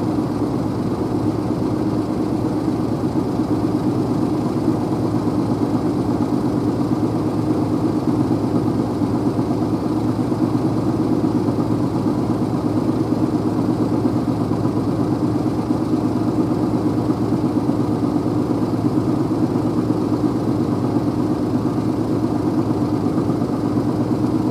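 Car driving along a road: steady engine and road noise.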